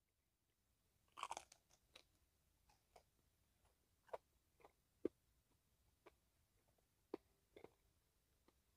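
Faint crunching and chewing as a deep-fried chicken wing with a thick, crispy breaded crust is bitten and eaten: a few short, separate crunches.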